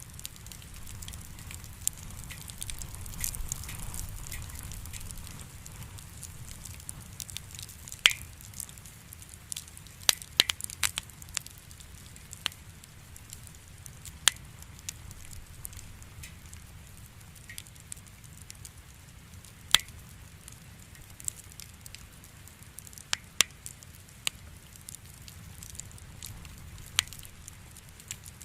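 Wood campfire burning with a low steady rumble of flame, broken by irregular sharp pops and crackles of firewood, a quick cluster of them about ten seconds in.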